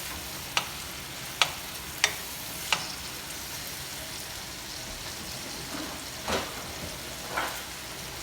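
Food sizzling as it fries in oil in a pan, with a utensil tapping sharply against the pan four times in the first three seconds and two softer knocks near the end.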